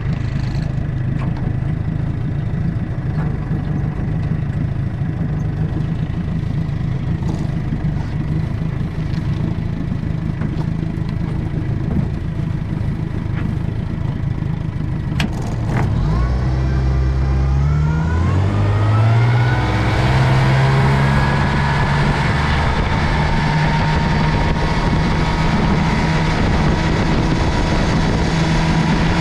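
1960 Gale Buccaneer 15 hp two-cylinder two-stroke outboard motor running steadily, then opened up about halfway through: its pitch climbs over several seconds and then holds steady at a higher speed.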